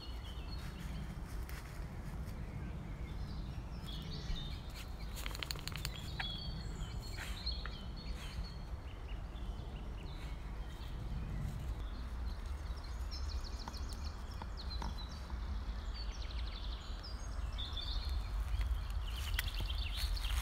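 Woodland birds calling: several short high trills and chirps at intervals over a steady low rumble.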